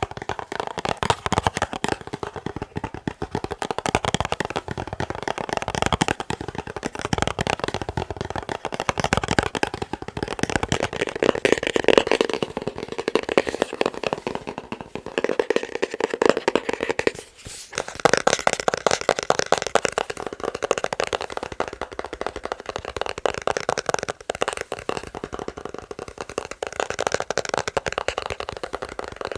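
Fast tapping on a box, a dense, continuous patter of quick taps. There is a brief pause a little past halfway, after which the tapping sounds brighter.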